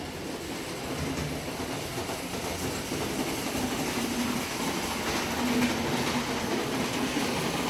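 A model train running along its layout track, with a faint motor hum, over steady background noise that swells slightly.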